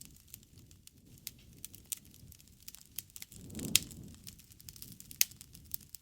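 Wood fire crackling: irregular sharp snaps and pops over a low rumble of flames. The rumble swells a little past the middle, where the loudest pop comes, and another strong pop follows about a second and a half later.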